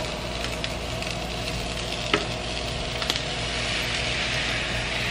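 Chickpeas and chopped bell pepper sizzling in a frying pan over a gas flame as raw kale is tipped in, with a few light clicks and knocks. The sizzling grows louder about three seconds in.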